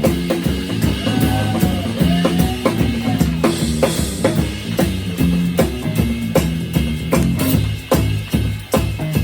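Live rock band playing an instrumental passage: a drum kit keeps a steady beat of bass drum and snare hits over sustained bass notes and other pitched instruments.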